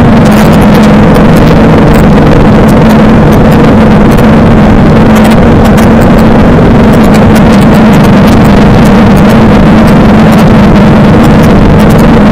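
Suzuki DL650 V-Strom's 645 cc V-twin engine running loud at steady revs, with scattered sharp ticks over it.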